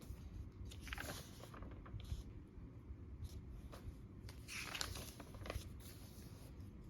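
Pages of a sticker-filled journal being turned by hand: two soft papery rustles, about a second in and again around the middle, over a low steady hum.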